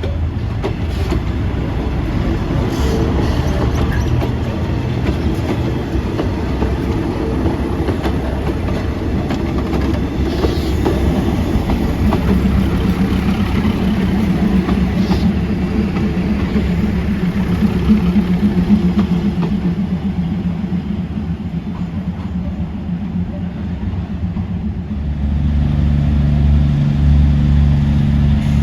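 Diesel train running along the track, its wheels clattering on the rails, with a steady engine drone that comes in about halfway and grows louder near the end.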